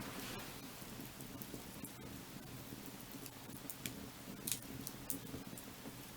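Firewood burning: a steady hiss with scattered sharp crackles and pops from the wood, the loudest pop about four and a half seconds in.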